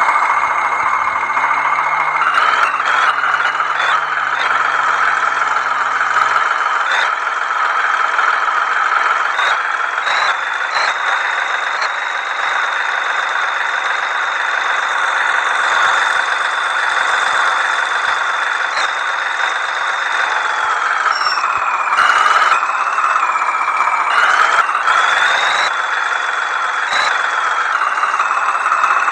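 Tractor engine running hard, loud and steady, with a high whine that drops about twenty seconds in and rises again a few seconds later as the revs change.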